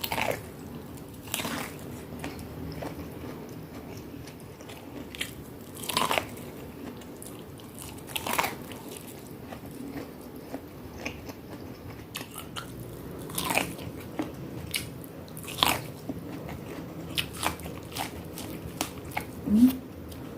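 Close-miked chewing of crunchy food: a steady mash of chewing broken by sharp crunches every second or two. A short closed-mouth hum comes near the end.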